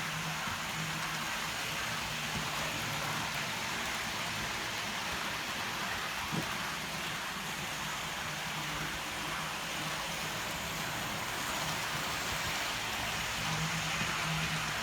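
Model train running on the layout: a steady hiss of wheels on track with a low motor hum that grows louder and fainter as the locomotive goes past, and a single click about six seconds in.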